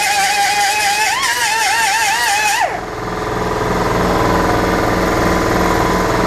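Power tool, most likely an angle grinder, working on welded scrap steel: a high whine that wavers in pitch under load with a strong hiss, cut off about two and a half seconds in with the pitch dropping away. After that a steady low pulsing engine-like hum carries on.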